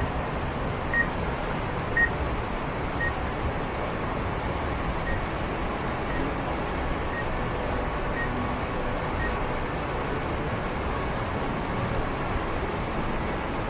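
Steady rushing roar of a large waterfall running high with snowmelt. Faint short high peeps come about once a second through the first half.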